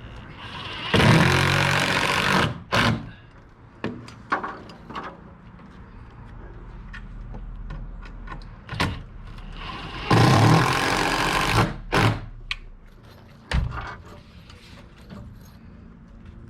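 Power drill running in two bursts of about a second and a half, several seconds apart, driving or pre-drilling screws through a window drip cap. Short clicks and knocks in between.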